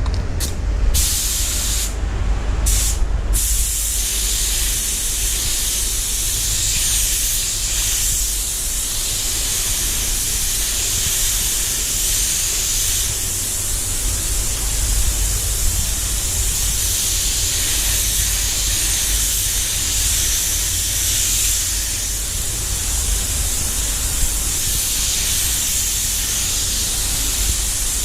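Compressed-air spray gun hissing steadily as it sprays non-sanding surfacer onto car body panels, with brief breaks in the hiss in the first few seconds. A steady low rumble runs underneath.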